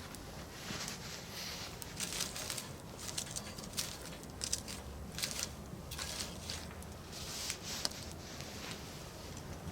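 Wood campfire crackling, with irregular pops and snaps of varying strength, the sharpest about halfway through and near the end, over a steady low background.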